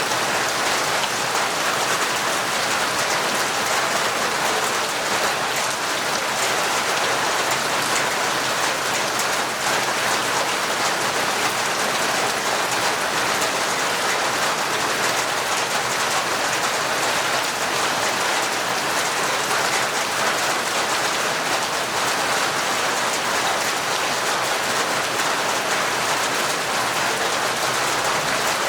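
Heavy, torrential rain falling steadily, a dense even patter of drops with no let-up.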